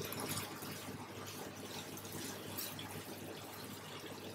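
Chicken liver cooking in a little masala gravy on a hot tawa, giving a soft, steady sizzle and bubble.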